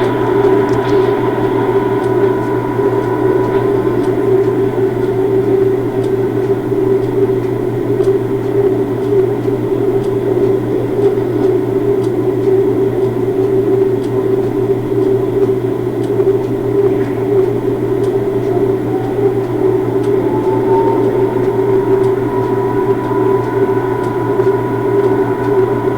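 Railway locomotive standing at idle, giving out a steady, unbroken machine hum, with a faint rising whine about three quarters of the way through.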